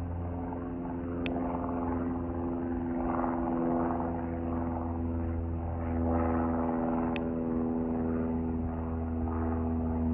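Propeller aircraft engine droning steadily, with two sharp clicks, one about a second in and one about seven seconds in.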